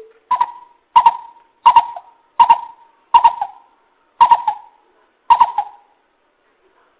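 Coucal (bìm bịp) calling a series of seven evenly spaced hooting notes, each with a sharp onset and a short ringing tail.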